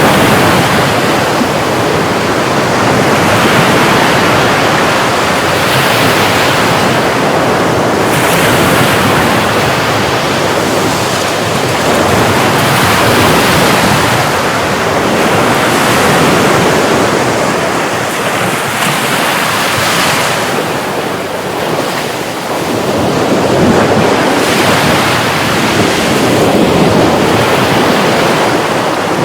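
Sea surf washing on a shore, a loud steady rush that swells and eases every few seconds as the waves come in.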